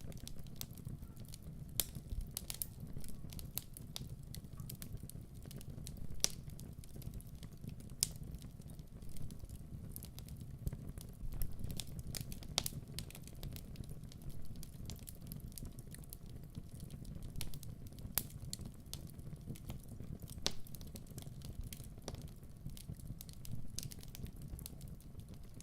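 Wood fire crackling in a fireplace: irregular sharp pops and clicks over a steady low rumble.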